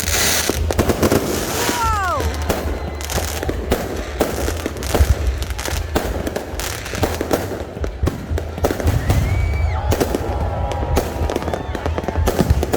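New Year fireworks display: a dense, continuous run of bangs and crackles over a steady low rumble, with a couple of brief whistles.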